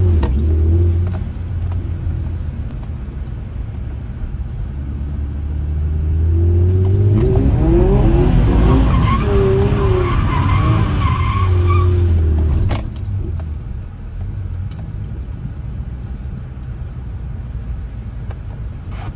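Infiniti G35 coupe's 3.5-litre V6 revving up and down hard as the car slides sideways on wet pavement, heard from inside the cabin, with tyre and water noise beneath it. The revs are highest from about six to twelve seconds in, then drop away suddenly to a quieter, steady roll.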